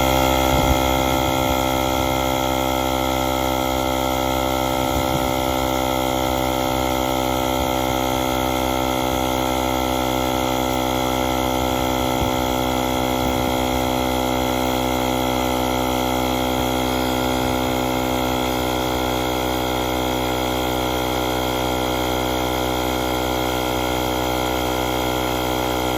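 AUTDER cordless portable air compressor running steadily as it inflates a tyre from about 22.5 PSI toward its preset 38 PSI. It is slightly louder for the first second or two, then holds an even hum.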